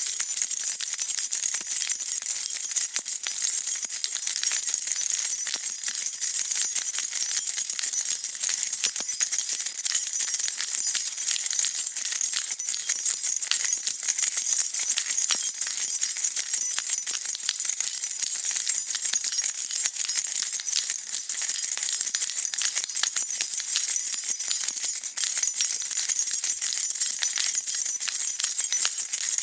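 A bunch of metal keys being shaken continuously, a dense, steady high jingling and clinking with no pauses.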